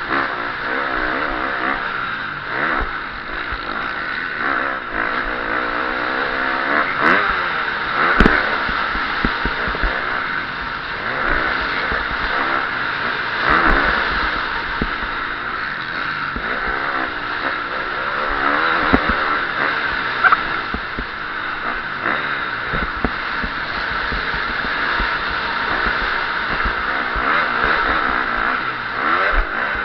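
KTM 350 SX-F motocross bike's single-cylinder four-stroke engine, ridden hard, its revs rising and falling over and over. A few sharp knocks and clatters come through from the bike over rough ground.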